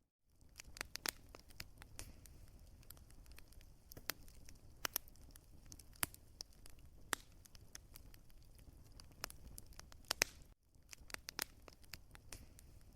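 Wood fire crackling, with many irregular sharp pops and snaps over a steady low rumble. The sound drops out briefly right at the start and again about ten and a half seconds in.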